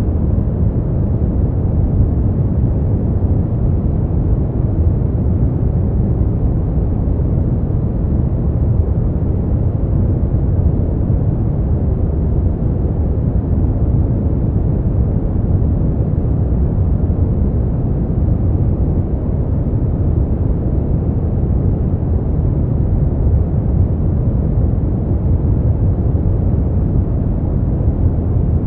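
Brown noise: a steady, deep hiss heavy in the low end and dull in the highs, unchanging throughout.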